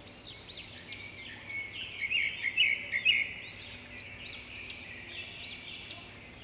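Birds chirping, with many short, quickly repeated notes and a louder flurry of chirps about two to three seconds in.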